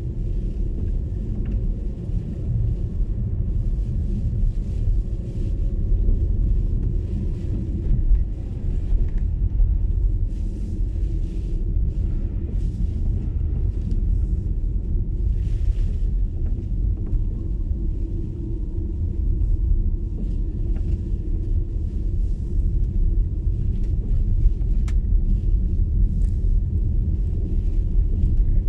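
MG ZS EV electric car driving on a snowy road: a steady low rumble of road and tyre noise with no engine note, and brief faint hisses now and then.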